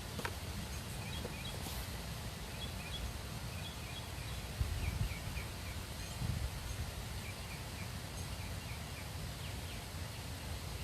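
Outdoor ambience: a steady background hiss with faint, quick series of small-bird chirps. Two brief low rumbles come about five and six seconds in.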